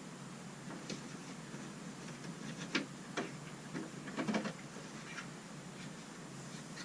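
A few scattered light clicks and taps, with a small cluster a little past the middle, over a faint steady background hiss.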